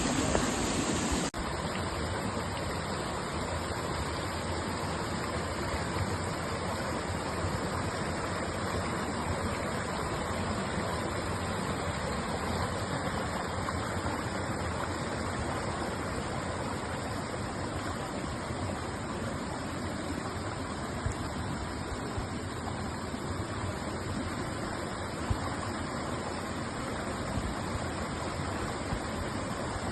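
Steady rush of flowing water. About a second in, the sound changes abruptly and loses some of its high hiss, then runs on evenly.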